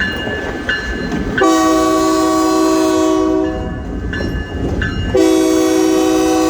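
Locomotive air horn sounding two long chord blasts, the first about two seconds long starting a second and a half in, the second starting near the end and still sounding. Before the first blast a bell rings about every 0.7 s, over the steady rumble of the moving train.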